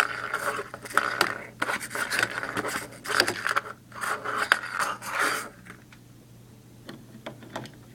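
Scraping and rustling of toys being handled and moved against a hard surface, with scattered sharp clicks. It dies down about five and a half seconds in, leaving a few faint clicks.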